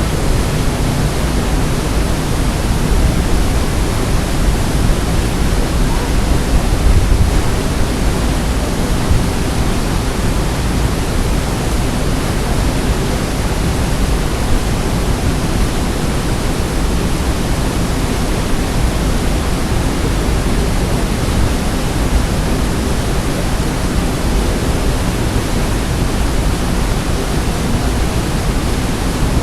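Waterfall: a steady, loud rush of falling water with a deep rumble underneath.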